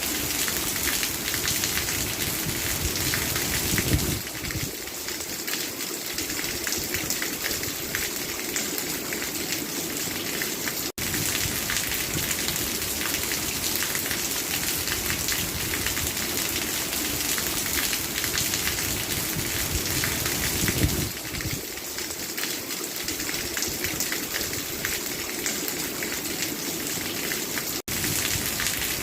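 Steady rain falling onto a surface, a dense patter of drops. The sound cuts out for an instant twice.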